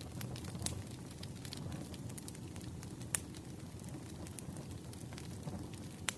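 Wood fire crackling: scattered sharp pops and snaps over a steady low rumble, with a louder pop about three seconds in and another near the end.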